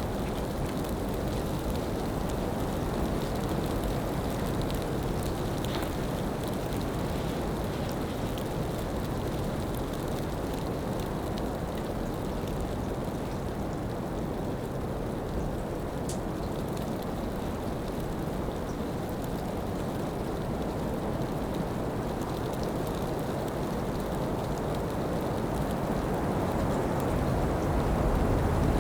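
Steady rushing noise of snowstorm wind, even and without let-up.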